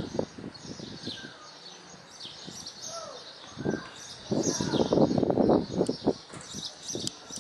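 Small birds chirping and calling, with short high chirps and a few gliding notes, over wind. A loud stretch of rapid buffeting noise comes between about four and six seconds in.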